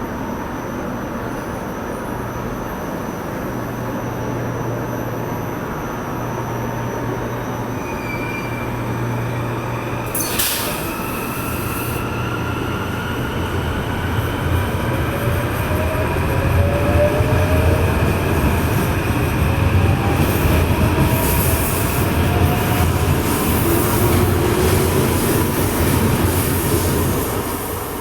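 A train running on the track, its rolling noise swelling from about halfway in and dropping off near the end. Thin whining tones glide slowly in pitch throughout, and there is one sharp metallic clank about ten seconds in.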